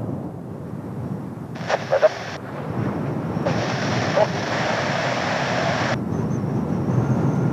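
Jet aircraft rumble from Blue Impulse Kawasaki T-4s mixed with strong wind buffeting the microphone. Two short bursts of hiss, starting and stopping abruptly, cut in near the start and in the middle.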